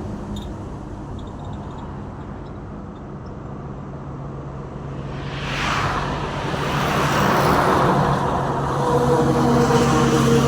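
Trucks and road traffic passing: one vehicle goes by about halfway through with a rush of tyre and wind noise. Near the end a heavy engine's steady hum grows louder as another approaches.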